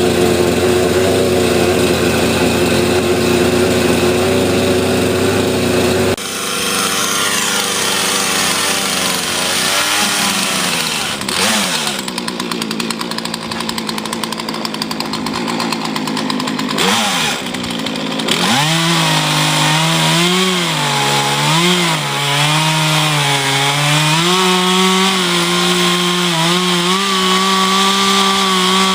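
Two-stroke chainsaw running, steady at first. From about 18 seconds in, its pitch dips and recovers again and again as the chain bites into the wood while felling a tree.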